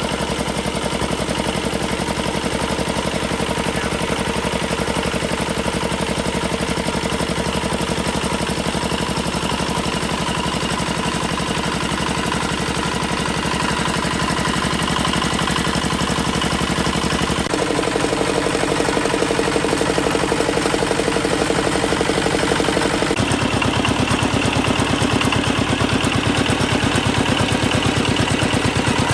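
Restored Chinese D8 single-cylinder diesel engine running steadily with a fast, even firing beat. Its note changes abruptly twice, a little past the middle and again later on, as the engine speed shifts.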